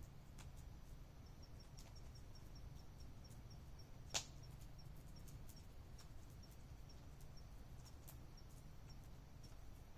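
Faint campfire crackling: scattered sharp clicks with one loud pop about four seconds in, over a low steady hum, and a faint high ticking repeating about five times a second.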